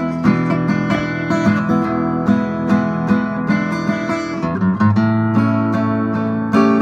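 Music: a strummed acoustic guitar playing a steady rhythm.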